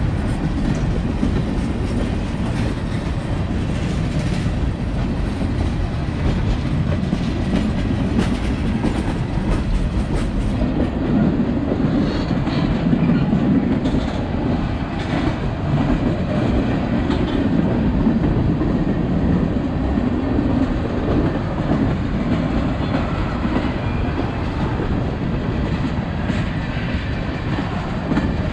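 Railroad tank cars of a freight train rolling past: a steady rumble of steel wheels on the rails.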